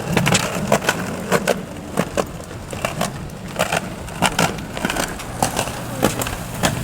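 Bicycle rolling over rough ground: an irregular run of crunching clicks over a low rumble.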